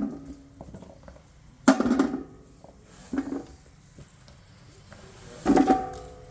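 Kitchen clatter: a cooking pot knocked and set down three times, each knock ringing briefly, the last one the loudest.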